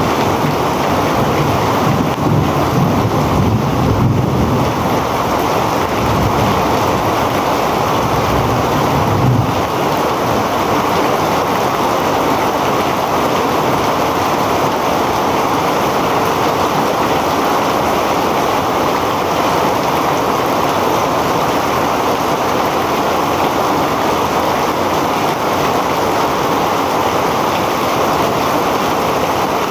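Heavy rain pouring down steadily, with wind gusting against the microphone as a low rumble for the first nine seconds or so.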